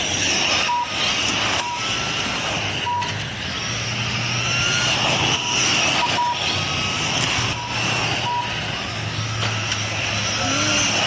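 Radio-controlled race cars running laps, their motors whining high and rising and falling in pitch as they speed up and slow down. Short electronic beeps sound at irregular moments throughout.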